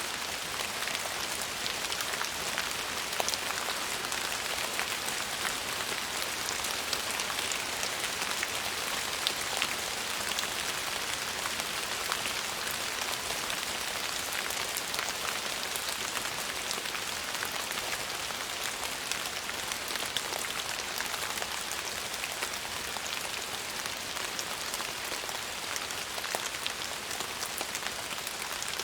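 Steady rain falling on a surface, an even hiss full of fine individual drop ticks.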